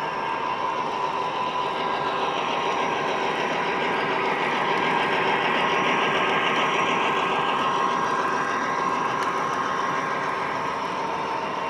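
O gauge model trains running on the layout: a steady rolling rumble of wheels on track with a constant motor hum, swelling to its loudest about halfway through and easing off as a train passes close by.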